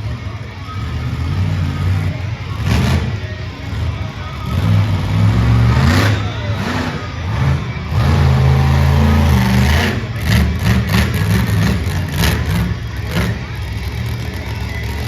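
Monster truck engine revving hard, rising and falling in bursts, with several sharp bangs through the middle.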